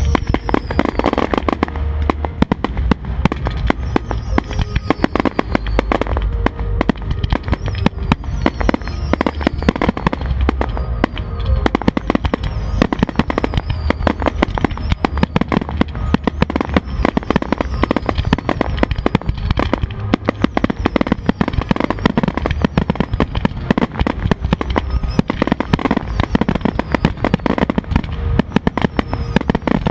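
Fireworks going off in a dense, continuous barrage of rapid bangs and crackles over a low rumble, with music playing underneath.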